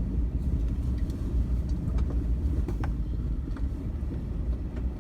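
A vehicle driving along a rough dirt road: a steady low engine and road rumble, with a few light clicks and rattles scattered through it.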